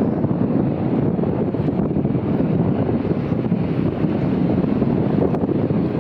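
Steady, loud rush of wind buffeting the microphone, a low rumbling noise without any distinct events.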